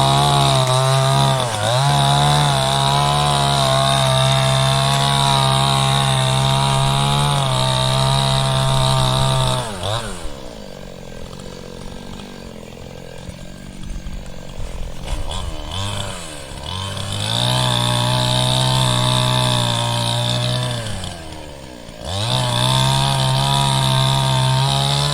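RYU two-stroke chainsaw held at full throttle for about ten seconds, then dropping to a quieter idle. It is revved up twice more near the end, with a short dip between the two runs.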